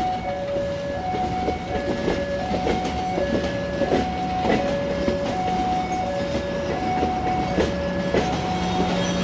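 Train moving slowly through the points, its wheels clicking over rail joints over a steady low engine hum. An electronic warning alarm alternates between a higher and a lower tone, one full cycle about every second.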